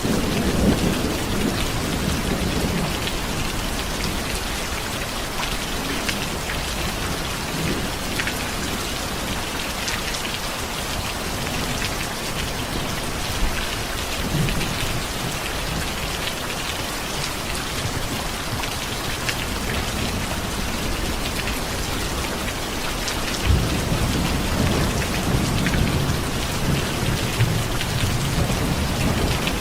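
Steady rain falling, with low rolling thunder rumbling in the first few seconds and again from about two-thirds of the way through.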